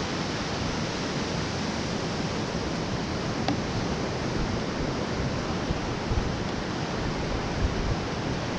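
Surf washing on a sandy beach: a steady rushing noise of breaking waves, with a few brief low thumps about six and eight seconds in.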